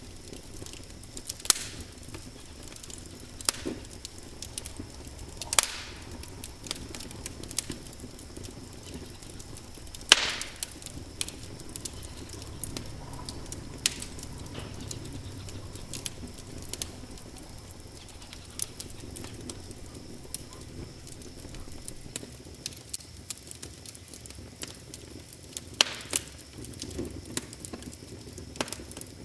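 Wood fire crackling in a fireplace: irregular small pops and ticks over a low steady hiss of burning, with a few loud sharp snaps, the loudest about ten seconds in.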